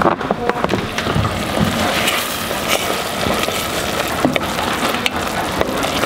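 Onions, garlic and mushrooms frying in butter in a stainless steel pot: a steady sizzle, with the spoon scraping and clinking against the pan as they are stirred.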